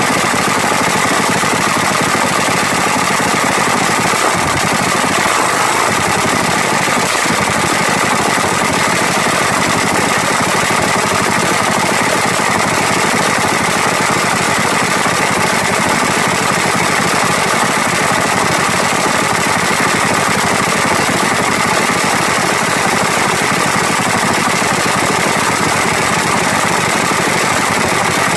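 Nitro-burning Pro Fuel Harley V-twin drag bike engine running on its stand during warm-up, loud and steady through twin open straight pipes, with fast, even firing pulses and no revving.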